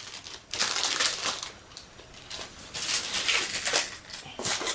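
Packaging crinkling and rustling in irregular handfuls as a boxed model part is unwrapped.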